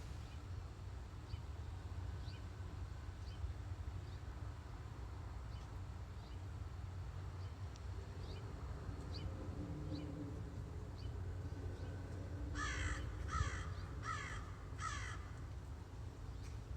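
A crow cawing four times in quick succession, about three-quarters of the way through, over a steady low rumble.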